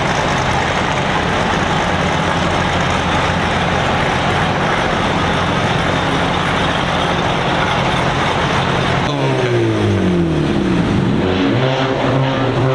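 Loud, steady noise of car engines and traffic. About nine seconds in it changes abruptly to a single car engine revving, its pitch falling and rising several times.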